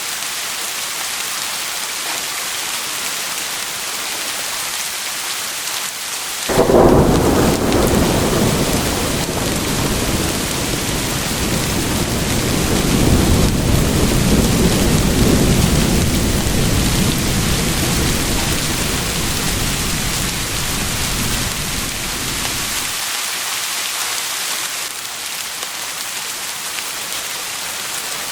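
Steady heavy rain with a long roll of thunder: a sudden low crack about six seconds in, rumbling on and swelling again, then dying away about two-thirds of the way through, leaving only the rain.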